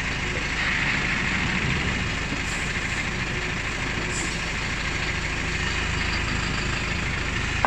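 Truck engine running steadily, a little louder about a second in.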